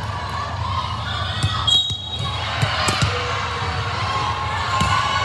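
Indoor volleyball play in a gym: several sharp thuds of the ball being hit, over steady crowd chatter in the echoing hall.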